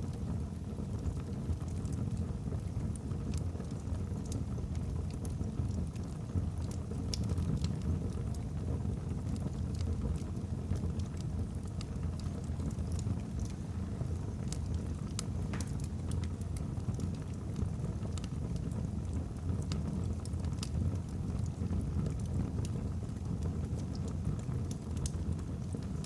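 Wood fire burning in a fireplace: a steady low rumble with frequent small, irregular crackles and pops from the burning logs.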